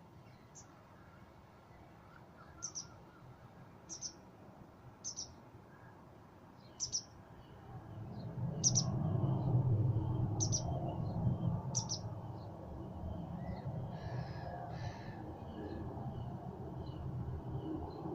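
A bird giving a series of short, high chirps, roughly one every second, over a low rumbling noise that grows louder about eight seconds in.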